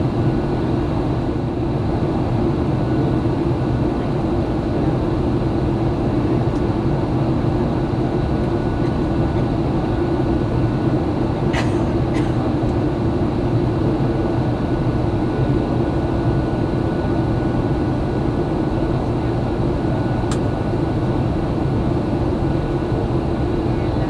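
Steady cabin roar of a Boeing 737-800 in flight, heard from inside the cabin: a constant low rumble of engine and airflow noise. A few faint clicks come around the middle.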